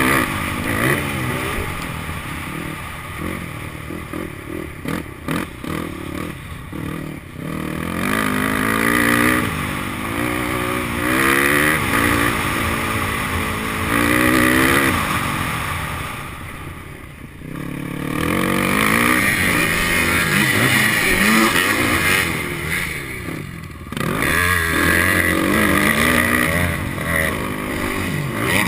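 Motocross bike engine revving hard, its pitch climbing and falling again and again as the throttle opens and closes, dipping briefly twice about two-thirds of the way through.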